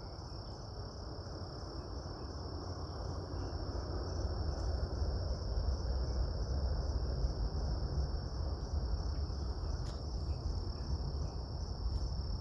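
A steady, high-pitched chorus of insects, over a low rumble that swells over the first few seconds and then holds.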